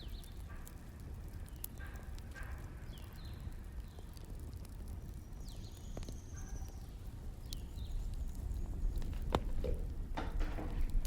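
Wood fire crackling: a low steady rumble with scattered sharp pops and snaps.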